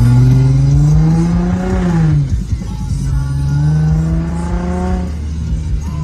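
Infiniti G35 coupe's 3.5-litre V6 revving hard: the engine note climbs for about two seconds, falls away, then climbs and holds again.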